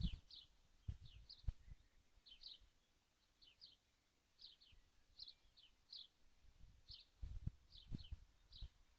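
Faint, short, high bird chirps, each falling slightly in pitch, repeated about twice a second and often in pairs. A few soft dull knocks come about a second in and again near the end.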